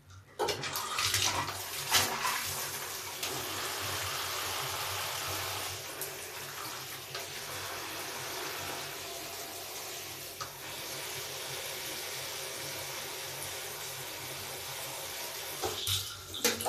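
Tap water running steadily onto a large soapy sponge, with wet squishing in the first few seconds; the flow stops near the end.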